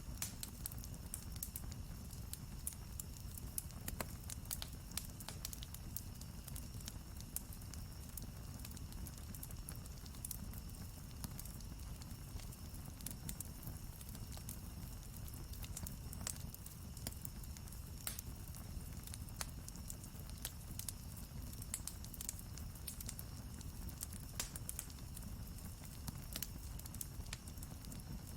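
Wood campfire crackling and popping: frequent sharp snaps over a steady low rumble of the flames.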